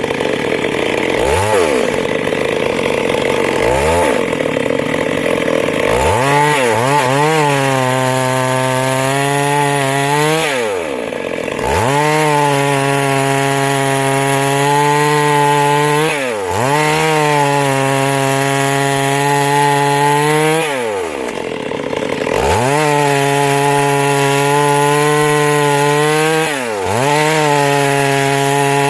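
Two-stroke chainsaw cutting wood. It is blipped up and down a few times, then held at high speed for stretches of several seconds, dropping briefly between them.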